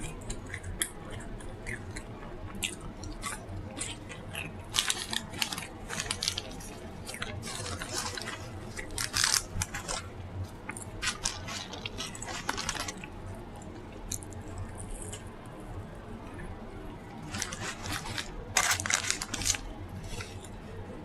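Close-miked eating sounds: irregular crunching, chewing and wet mouth smacks, with louder bursts of crunching every few seconds.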